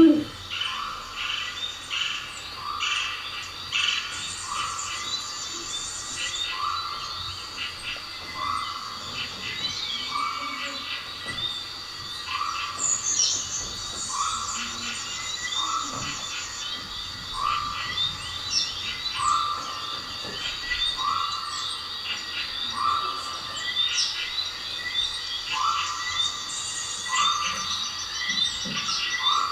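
Frogs croaking in a dense chorus, one call repeating about once a second, with birds chirping over them.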